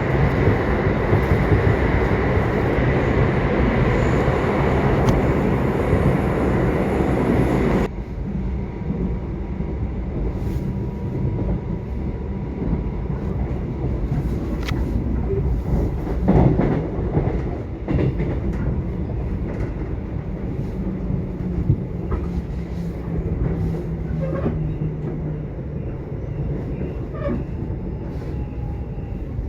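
Subway train running: a steady loud rumble of wheels and rails that drops suddenly to a quieter rumble about eight seconds in, with scattered clicks and knocks.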